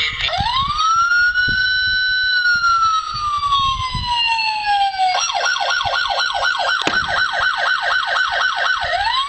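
Electronic siren sound effect from a toy RC police car: a wail that rises, then slowly falls, switching about five seconds in to a fast yelp of about four cycles a second, then rising again near the end.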